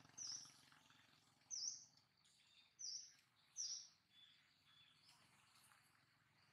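A small bird chirping: four short, high chirps, each dipping and rising in pitch, about a second apart, then two faint thin notes.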